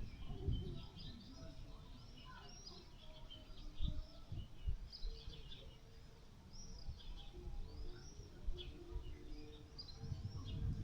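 Many small birds chirping and twittering in quick, overlapping calls, over a low rumble with a couple of dull thumps about four seconds in.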